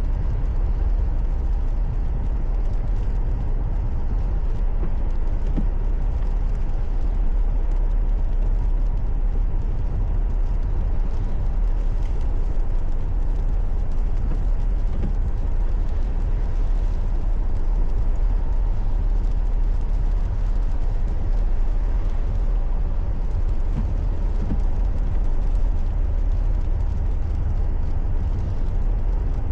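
Steady driving noise of a car on the road, a continuous low rumble of engine and tyres with no sudden events.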